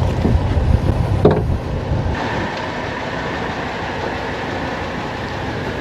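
Wind buffeting the microphone on a small open fishing boat, a heavy low rumble with a single knock about a second in. About two seconds in the rumble drops away to a steady hiss.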